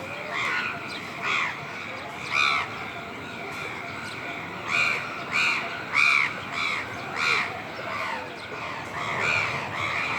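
Birds calling: about a dozen short calls that rise and fall in pitch, some in quick runs, over steady background noise.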